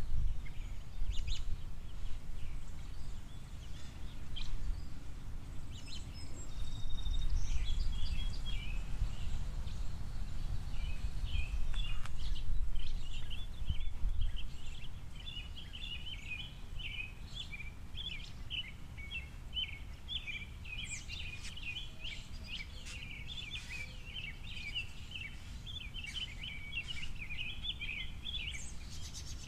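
Small songbirds at a seed feeder chirping and twittering in a long, rapid run of high warbled notes that starts about a third of the way in. Under it is a low rumbling background noise, louder in the first half.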